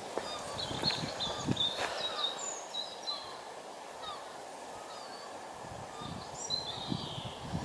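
Small birds chirping and singing in many short, high notes, some sliding in pitch, over a faint steady background.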